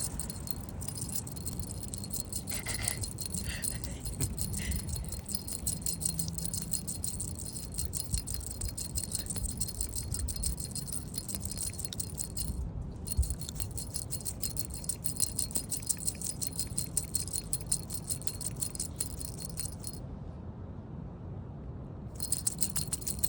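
A rapid, light jingling rattle of many fine ticks, breaking off briefly about halfway through and again for a couple of seconds near the end.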